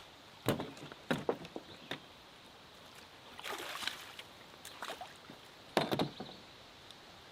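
Canoe on the water with its paddle working: several irregular knocks and swishes of the paddle and hull.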